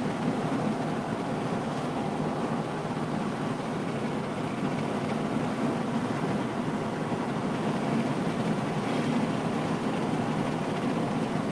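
Steady road and engine noise heard from inside a moving vehicle's cabin.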